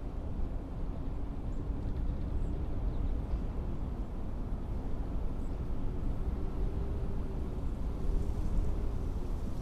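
Blizzard wind blowing as a steady low rumble, with a faint wavering tone over it.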